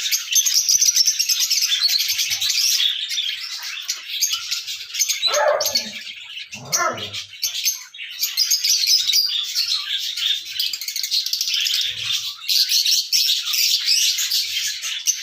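Pet parrot chirping and chattering continuously in rapid high calls, with two short lower, falling sounds about five and seven seconds in.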